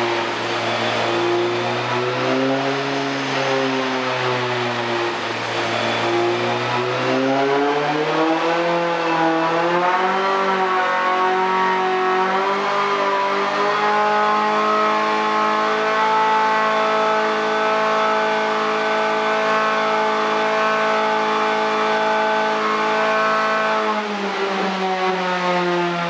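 Renault Clio Cup race car's four-cylinder engine under load on a rolling-road dyno. It runs at moderate revs with slight wavering, then rises in pitch over several seconds and holds at a steady higher pitch for about ten seconds. Near the end it drops slightly.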